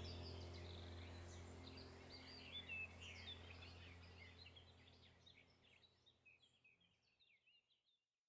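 Small birds chirping in quick, high, gliding notes over a low steady hum. The whole sound fades gradually away to silence near the end.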